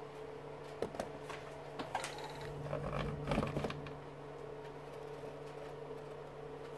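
Scattered light clicks and taps of tools and stripped wire being handled, most of them between about one and four seconds in, over a steady low hum.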